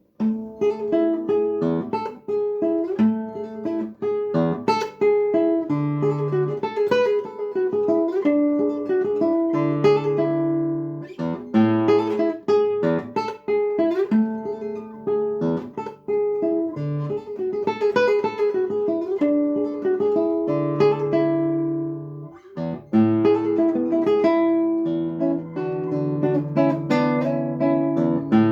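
Solo acoustic guitar playing a contemporary piece, plucked melody notes over ringing bass notes, with a brief pause about three quarters of the way through.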